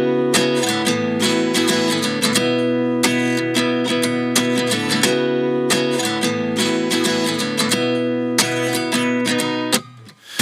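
Background music: a song's intro of strummed acoustic guitar chords in a repeating pattern, breaking off briefly near the end.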